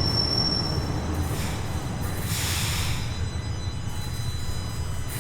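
Bombardier Toronto Rocket subway train running with a steady low rumble. A high wheel squeal stops about a second in, and there are two short hisses around the second and third seconds.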